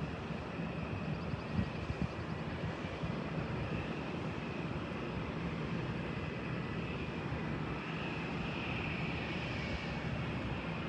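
Steady jet engine noise from a distant airliner, an even rumble with a faint whine over it that swells slightly near the end.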